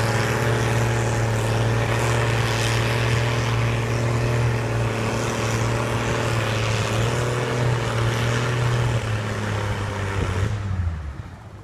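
Pulling tractor's engine running hard at steady high revs under load, with a loud low drone and exhaust noise. It drops away about ten and a half seconds in.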